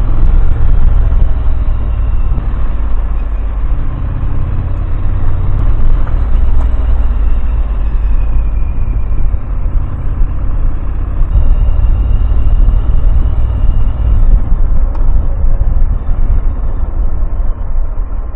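Motorcycle riding along at a steady pace: a loud, steady low rumble of engine and wind noise.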